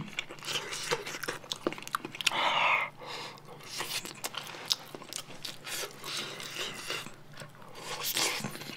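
Close-miked chewing and biting of pan-fried dumplings and rice: many small wet mouth clicks and smacks, with a short breathy sound about two and a half seconds in.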